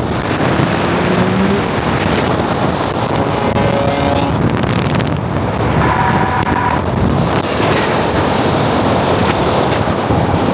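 Loud, steady rush of vehicle noise mixed with wind on the microphone, with faint rising engine tones coming through here and there.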